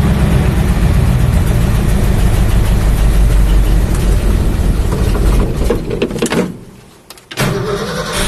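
Old carbureted Ford pickup engine running rough on a cold start. About six seconds in it drops away almost to nothing, then catches and runs again a second later. The running trouble comes from a carburetor that isn't right, made worse by the cold, with the engine popping and crackling.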